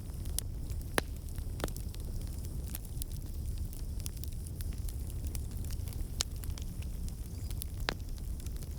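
Fire in a fireplace crackling, with scattered sharp pops over a steady low rumble of flames.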